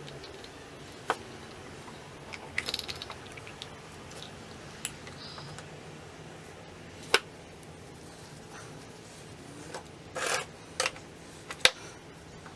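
Scattered sharp metal clicks and clinks from a vintage Alemite hydraulic grease gun being handled, with a quick cluster about two and a half seconds in and the loudest clicks a little past the middle and near the end.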